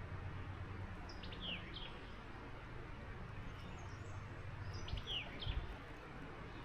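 A songbird sings two short phrases of quick falling high notes, one about a second in and a near-identical one about five seconds in, over a steady low rumble. A soft low thump comes just after the second phrase.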